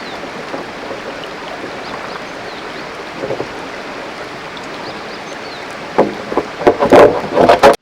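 Mountain river flowing steadily, then a burst of loud, irregular splashing in the last two seconds.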